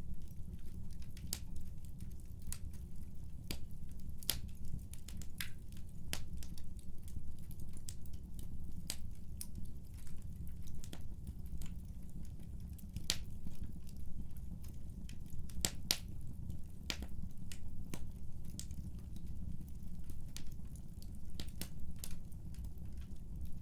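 Wood fire burning in a fireplace: a steady low rumble of flames with irregular sharp crackles and pops, several close together about sixteen seconds in.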